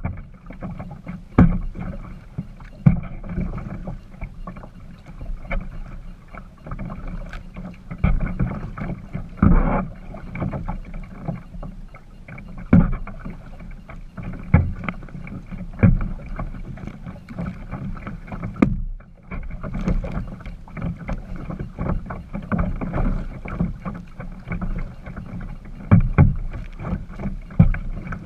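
A kayak being paddled: regular paddle strokes about every second and a half, each a splash of water with a sharp knock, over a steady low rumble of water against the hull.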